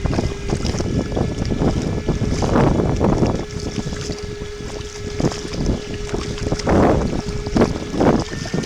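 Wind buffeting the microphone and water splashing around a motorised kayak under way, with a steady thin hum running through the middle, fitting its Torqeedo electric outboard.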